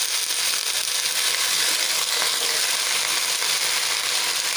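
Vegetables frying in hot mustard oil in a kadai, a steady hissing sizzle, as bottle gourd leaves and stems are added to the pan.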